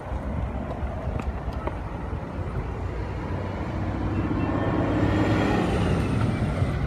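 A motor vehicle approaching and passing on the road, its engine and tyre noise growing louder over the first few seconds over a steady traffic rumble.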